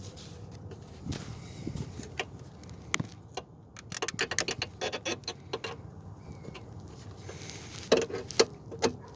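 Hand tools and car parts being handled: scattered clicks and clinks, a run of rapid clicking about four seconds in, and a few louder knocks near the end.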